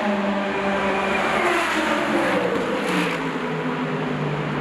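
Race car engine running at high revs, its pitch sliding down over a couple of seconds in the middle.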